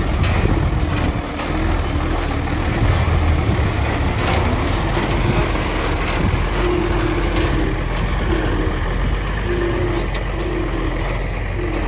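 Bulldozer's diesel engine running steadily with a deep rumble. In the second half a higher hum pulses on and off.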